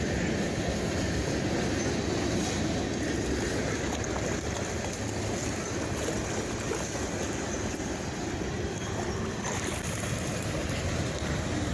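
Freight train of hopper cars rolling steadily across a wooden trestle bridge, a constant noise without breaks.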